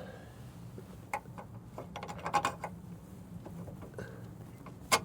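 Metal tools and hardware being handled while a truck shock absorber is fitted: scattered sharp clicks and clinks, a short rattling clatter about two seconds in, and a sharp metallic knock near the end.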